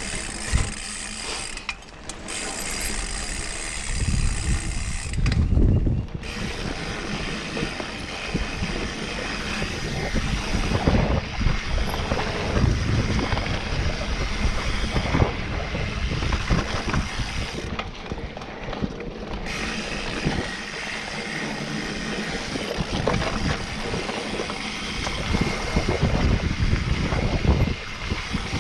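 Mountain bike ridden along a dirt trail: wind buffeting the microphone, tyres rolling over the ground and the chain and frame rattling over bumps, with the freehub clicking when the rider coasts.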